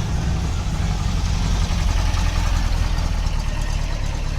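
A vehicle engine idling steadily, with a low, even rumble.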